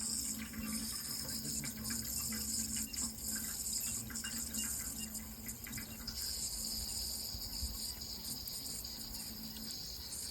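Steady running water, a continuous splashing hiss with faint scattered drips and clicks.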